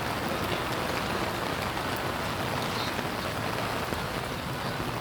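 Steady rain falling and pattering on surfaces, an even hiss of drops.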